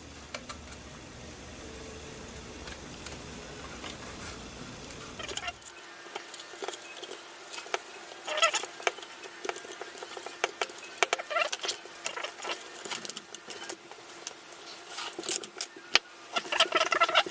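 Small clicks, taps and rustling as plastic drone parts and motor wires are handled and connected, sparse at first and busier in the second half. A steady low hum in the first few seconds cuts off suddenly about six seconds in.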